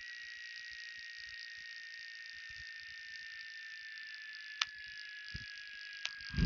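Cessna 182 cockpit noise heard through the headset intercom, engine pulled to idle for a power-off approach: a steady hiss with a thin whine slowly sinking in pitch. Two sharp clicks come near the end.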